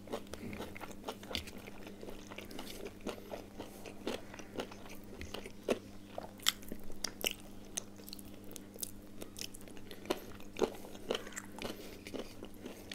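Close-up eating sounds of a man chewing a mouthful of rice and curry eaten by hand: soft crunching bites and wet mouth clicks at irregular intervals.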